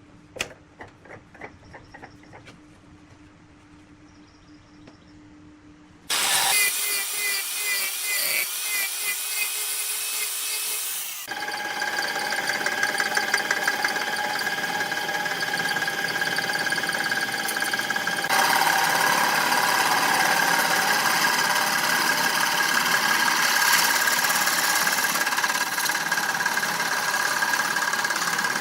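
Woodworking machinery at a lathe, in several cut-together clips. It starts with a few clicks over a faint steady motor hum. About six seconds in, a louder machine whine starts suddenly. From about eleven seconds, a loud steady machine run with a constant whine and hiss takes over.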